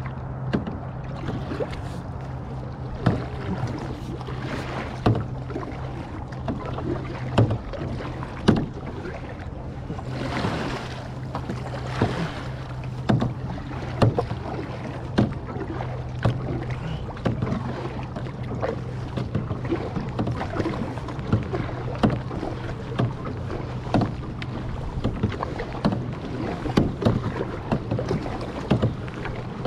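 Paddling a clear kayak: water splashing and dripping off the paddle, with many short, irregular knocks and clicks, over a steady low hum. A longer splash comes about ten seconds in.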